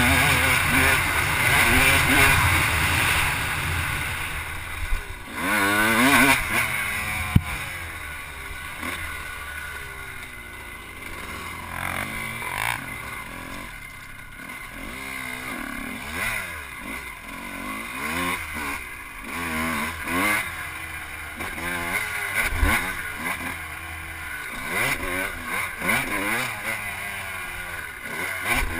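Off-road vehicle engine on a motocross track, revving up and down as it accelerates and shifts. It is loud for the first few seconds, then quieter, with the pitch rising and falling again and again.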